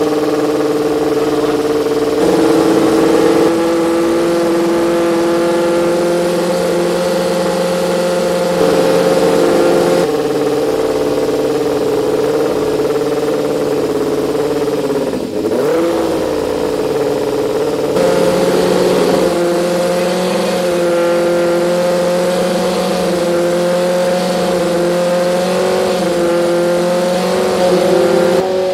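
Formula Student race car engine running through an Arrow GP2 silencer, held at steady revs that step up or down every several seconds, as in engine mapping. About halfway through the revs briefly drop and come back.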